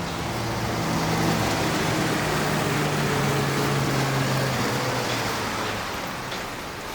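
A motor vehicle's engine running with a steady low hum over a broad rushing noise. The hum fades out about five to six seconds in.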